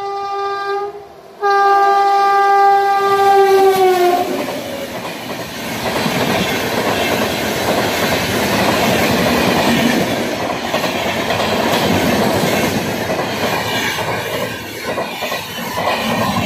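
WAP-7 electric locomotive's two-tone horn sounding twice, a short blast and then a longer one that drops in pitch as the locomotive passes close by. Then the express's passenger coaches rumble past at speed, wheels clattering over the rails.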